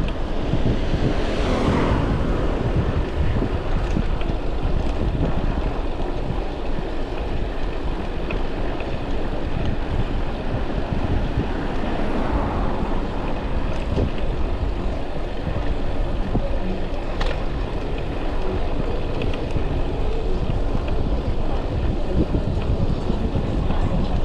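Wind buffeting a chest-mounted GoPro's microphone on a moving bicycle, over city traffic. A vehicle sweeps past near the start and another about halfway through.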